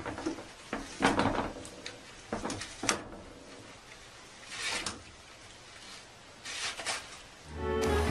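Cat pawing a toilet-paper roll on a metal stand holder: a few sharp knocks and rattles of the roll against the holder, and a short rustle of unrolling paper a little after halfway. Music comes in at the very end.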